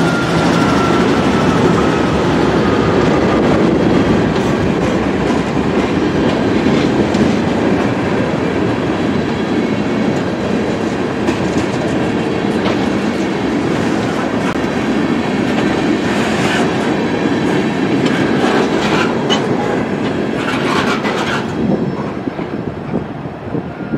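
A freight train rolls through a grade crossing: the trailing GE C44-9W diesel locomotive passes at the start, then tank cars and a hopper car rumble by with wheels clacking over the rail joints. Near the end the last car clears and the train noise drops away, leaving the crossing bells ringing.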